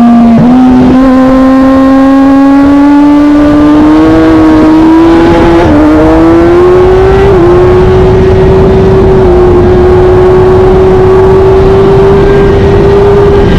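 A vehicle engine at full throttle, climbing in pitch with brief dips that sound like quick gear changes, then holding a steady high-speed note for the second half.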